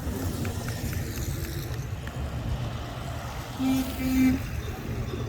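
Classic cars driving slowly past in a procession, engines rumbling steadily. Two brief low toots come a little past halfway.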